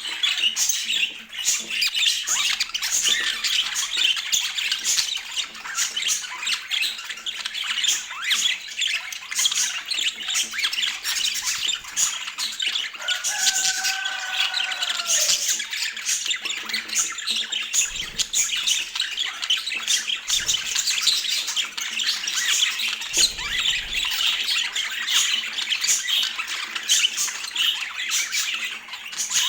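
Budgerigars chattering in a continuous stream of high calls, with a brief lower curving call about thirteen seconds in.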